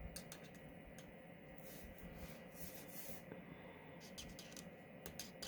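Faint scratching of a Stampin' Blends alcohol marker tip on cardstock: many short light strokes, with a couple of longer strokes in the middle while a small area is coloured in.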